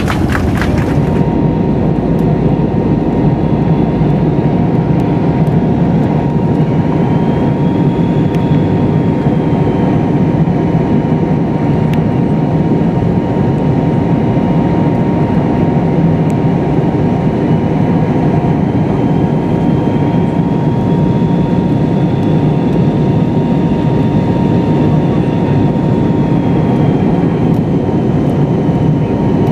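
Steady cabin noise inside an MD-83 airliner: its rear-mounted Pratt & Whitney JT8D turbofans and the rushing air heard through the fuselage, with a steady whine running underneath.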